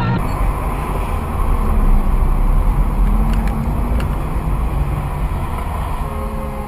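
Car driving, a steady low engine and road rumble picked up by an in-car dashcam, with two faint clicks about three and a half and four seconds in.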